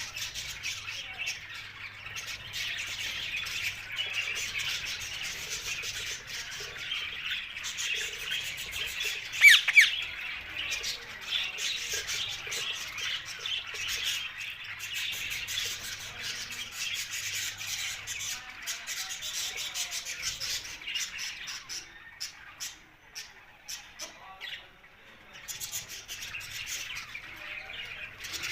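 Parrots chattering and squawking steadily, with two loud sharp squawks close together about nine and a half seconds in. The chatter thins to scattered short calls in the last third.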